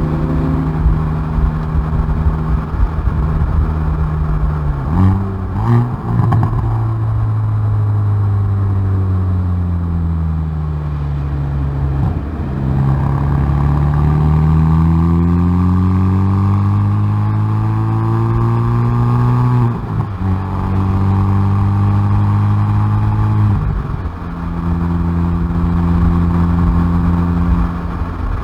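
Hyundai i30N's turbocharged four-cylinder exhaust under hard driving on track. There are a few sharp cracks about five seconds in as it comes off the throttle, then the engine note falls for several seconds. It rises again under acceleration and drops sharply at a gear change about twenty seconds in, with another change near twenty-four seconds.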